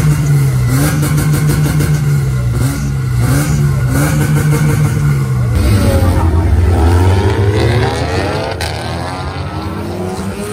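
Several modified car engines revving hard, held high with a wavering pitch. About halfway the cars pull away and accelerate, engine pitch rising through the gears, then fading slightly near the end.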